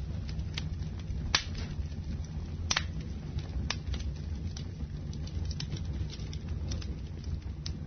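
Wood fire in a fireplace crackling: sharp pops come about once a second over a steady low rumble of the burning fire, with two louder pops in the first three seconds.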